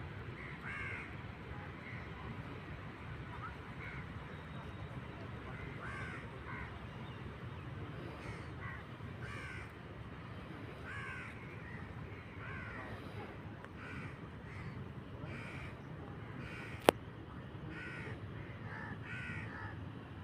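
Crows cawing repeatedly, short calls coming every second or so over steady low background noise. A single sharp click sounds near the end.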